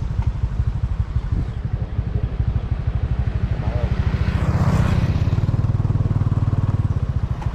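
A small engine running steadily with a rapid, even low pulse, with a brief rushing swell about four to five seconds in.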